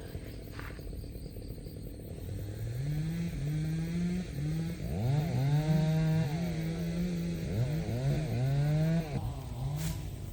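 A small engine revving up and down repeatedly, its pitch climbing to a steady high and falling back several times.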